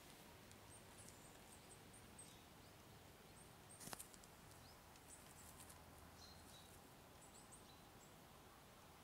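Near silence, with faint, short, high chirps of small birds in the background and a single click about four seconds in.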